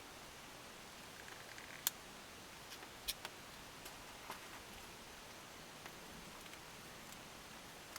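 A few faint, sharp clicks and a light rustle of hands handling hydraulic cylinder seals and parts during repacking, over a steady low hiss.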